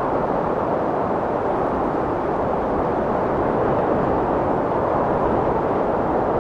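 Strong wind blowing, a steady rushing noise without gusts or breaks.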